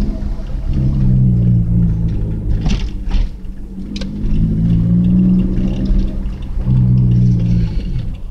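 Daihatsu Sirion's exhaust through an aftermarket Tanabe muffler, the engine raised in revs three times and held briefly, dropping back between. There are a few sharp clicks around the third and fourth seconds.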